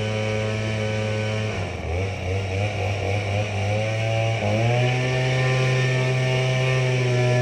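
Tractor engine running steadily. About a second and a half in its speed wavers and dips for a few seconds, then it settles at a slightly higher, steady speed.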